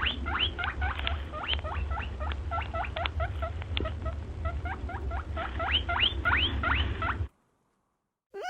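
A small rodent squeaking in a rapid series of short, high chirps, several a second, over a steady low rumble; the chirping stops suddenly about seven seconds in.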